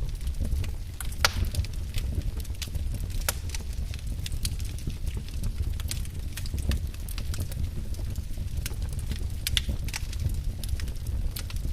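Wood fire burning in a fireplace: a steady low rumble of the flames with irregular crackles and sharp pops of burning logs, a few pops louder than the rest.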